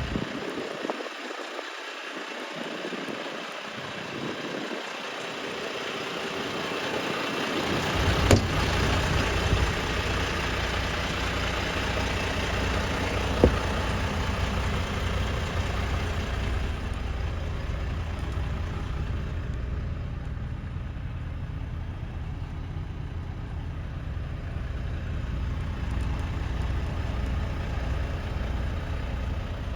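Volvo FL280 truck's diesel engine running steadily at idle. Its low engine sound comes in about eight seconds in and holds from then on, with two short sharp clicks.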